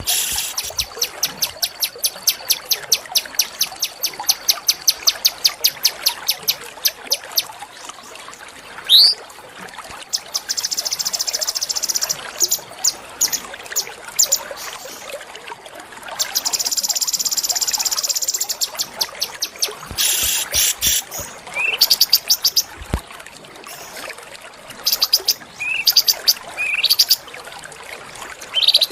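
Small songbirds singing: long runs of sharp, high, rapid chips at several per second, broken by quick rising whistles. Twice in the middle comes a long, very fast buzzy trill, and scattered bursts of chips follow near the end.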